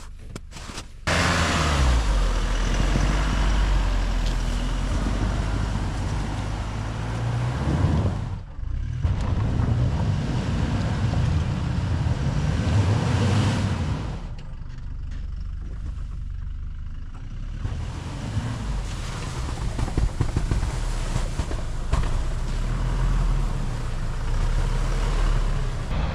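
A motor vehicle's engine running with a steady low hum under a rushing noise, starting suddenly about a second in and thinning for a few seconds past the middle.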